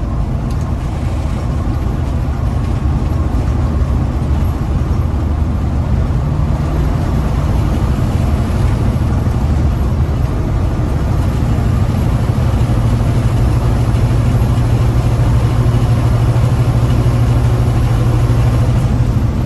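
Big-rig truck's diesel engine running under load while driving, heard from inside the cab: a steady low drone over road noise, its note shifting about six seconds in and growing stronger from about twelve seconds on.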